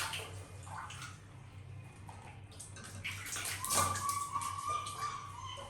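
Faint water splashing and trickling with small clicks and knocks. A thin, steady high tone is held for about two seconds in the second half.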